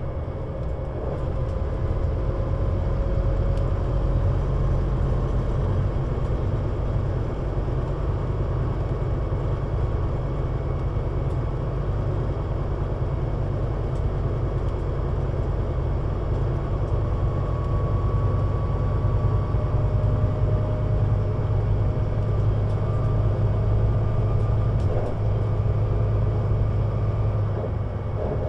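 Scania CN320UA 6x2/2 city bus driving, its engine and drivetrain giving a steady low rumble that swells about two seconds in, with faint whining tones that drift in pitch over it.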